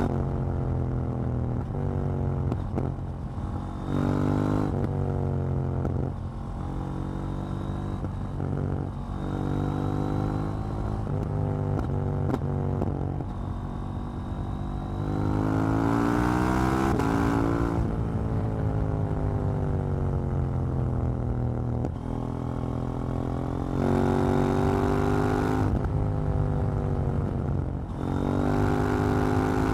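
KTM 790 Duke's parallel-twin engine under way, revving up through the gears in several loud pulls, with the pitch dropping at each shift and easing down on the overrun between pulls.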